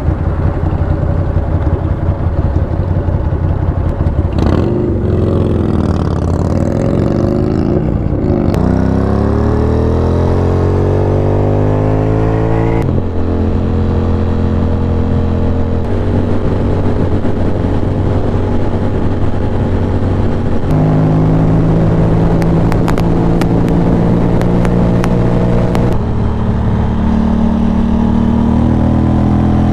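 Ducati Monster 620's air-cooled L-twin engine running under way, with one long rising rev as it accelerates through a gear, then several gear changes and stretches of steady cruising.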